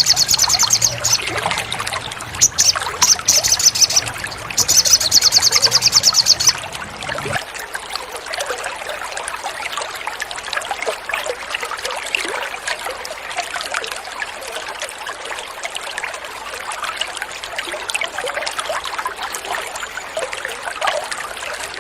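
A songbird's rapid high trills, in several bursts through the first six or so seconds, over steadily trickling water. After about seven seconds only the trickling water goes on.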